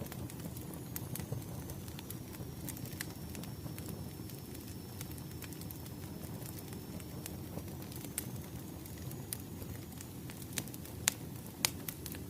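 Crackling wood fire: a steady low rumble of burning logs with irregular sharp pops and snaps, two louder pops near the end.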